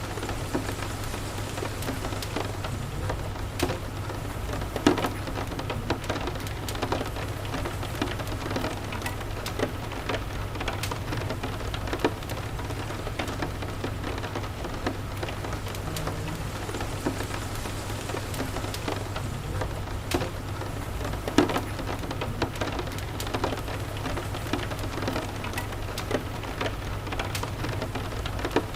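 Steady rain falling, with scattered sharp crackles and pops from a wood fire, the loudest about five seconds in and again near twenty-one seconds, over a low steady rumble.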